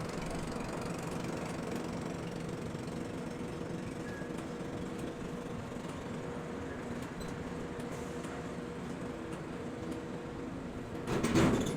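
Steady hum of quay container crane machinery, with a few held tones, and one louder clank near the end.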